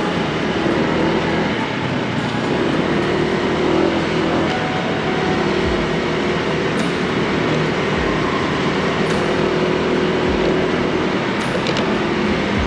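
Steady road, engine and traffic noise heard from a Honda Click 160 scooter riding in city traffic, with a faint engine drone and a few short low thumps.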